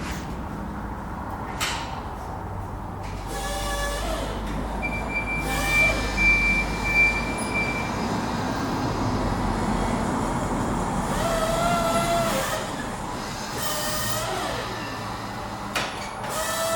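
Forklift engine running with its hydraulics whining, the whine rising and falling several times as the mast lifts the log. A steady high squeal is heard for about three seconds partway through.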